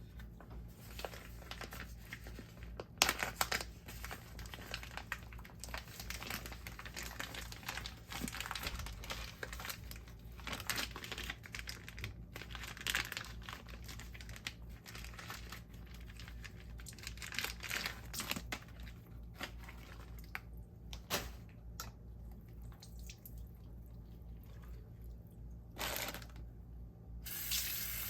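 Crinkling, tearing and rustling as wrapping is handled and pulled apart, in uneven bursts. About a second before the end, a kitchen tap turns on and runs steadily.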